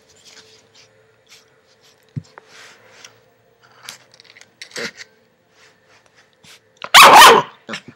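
Puppy play-biting and scuffling: scattered small clicks, nibbles and rustles over a faint steady hum, then one loud, brief burst of noise about seven seconds in.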